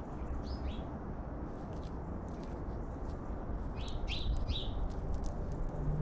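Small birds chirping: short high notes that fall in pitch, a pair near the start and a quick run of three about four seconds in, over a steady low background rumble.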